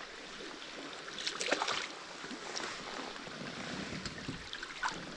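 Water sloshing and splashing at the side of a kayak while a hooked smallmouth bass is being played. A short flurry of splashes comes about a second in.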